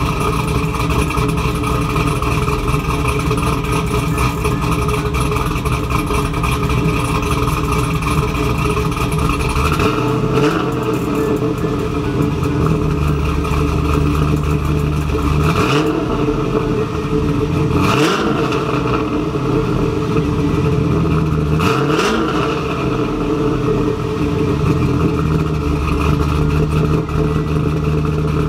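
Cammed LS V8 of a 2002 Camaro SS idling through long-tube headers and a full SLP exhaust, its idle raised to about 750–800 rpm by an owner's idle tune. The note changes about a third of the way in, and its pitch briefly rises and falls a few times in the second half.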